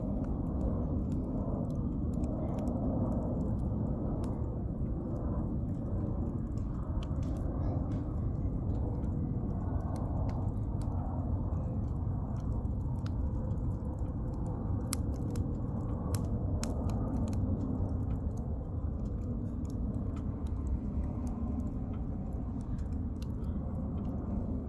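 Wood campfire burning: firewood crackling and popping in scattered sharp snaps, more of them around the middle, over a steady low rumble.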